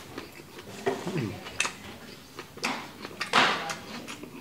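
Close-miked chewing of a rice paper spring roll with shrimp, squid and lettuce: scattered wet mouth clicks and smacks, a short falling hum about a second in, and a louder breathy burst a little after three seconds.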